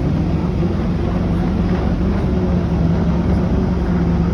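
Steady low engine drone with a constant hum and a wash of noise, typical of a ferry's diesel engine heard from on board.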